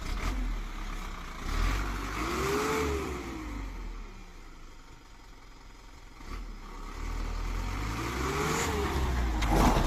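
Truck engine running with a low rumble, revving up and dropping back twice, with a quieter stretch in between, as the truck is driven and slowed in a brake test after both rear brakes were overhauled. A sharp knock at the start and another near the end.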